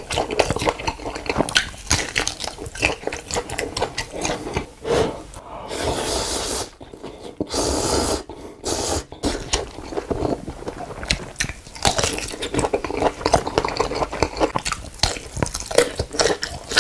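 Close-miked mukbang eating sounds: wet chewing, biting and smacking in quick succession, with a few longer slurps around the middle.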